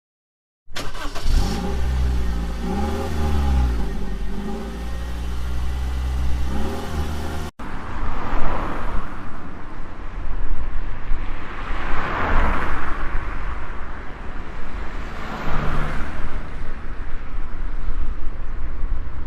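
Motor vehicle sounds: an engine rising and falling in pitch as it revs, then after a brief cut, road noise that swells three times as vehicles pass.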